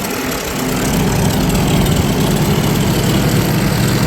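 An engine running steadily, getting louder about a second in and then holding.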